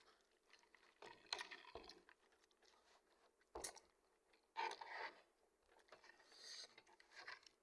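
Faint, close-up chewing and a few short crisp crunches from a person eating crispy fried chicken, in scattered bites with pauses between.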